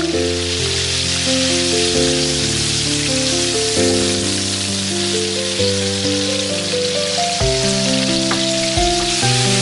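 Battered chicken pieces deep-frying in hot oil, a steady dense sizzle throughout, over background music of held notes that change every second or so.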